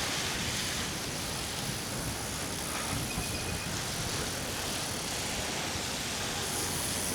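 Steady road noise of a bicycle ride through slushy city streets after a snowstorm: wind rushing over the microphone and tyres on wet road, with traffic around.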